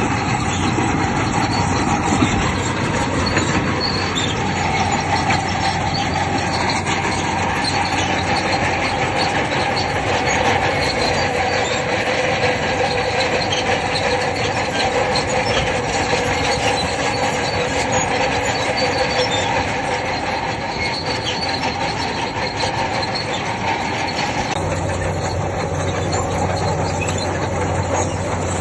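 Bulldozer at work, its engine running while its steel crawler tracks squeal and clank. About three-quarters of the way through the sound shifts and a lower engine hum comes up.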